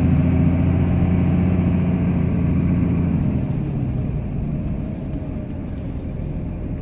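Cummins straight-six turbo diesel of a Ram pickup running steadily, heard from inside the cab; about three seconds in its engine note drops away to a lower, quieter run.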